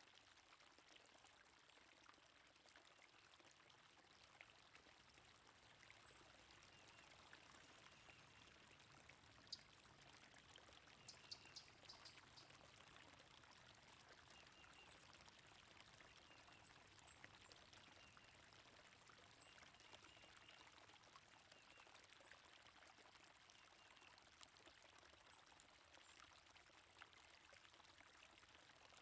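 Faint, steady flow of a stream, with brief high bird chirps scattered over it.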